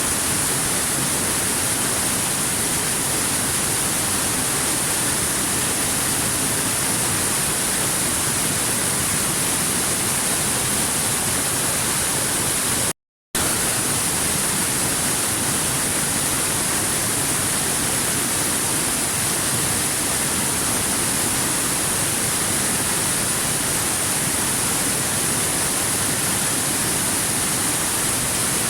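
Waterfall rushing steadily, an even hiss heaviest in the high treble. It cuts out to silence for a split second about halfway through.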